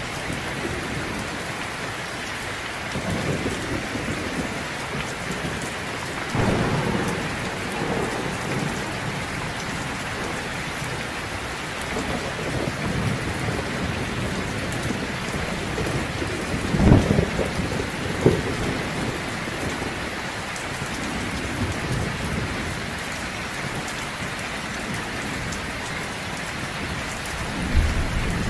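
Heavy rain falling steadily, with rolls of thunder rumbling in and out and two sharper, louder thunder cracks a little past halfway.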